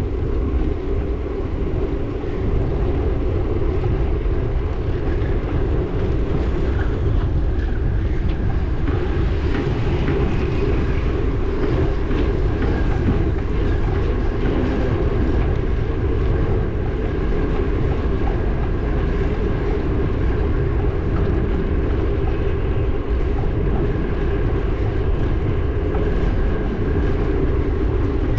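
Steady riding noise: a constant low rumble of the moving vehicle, mixed with wind on the microphone.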